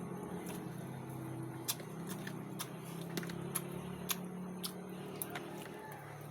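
Someone eating: scattered small clicks and taps of chewing and utensils, over a steady low hum.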